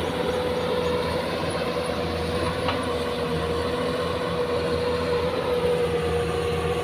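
Heavy diesel earthmoving machinery, a loaded dump truck or an excavator, running steadily, with a low drone and a held whine.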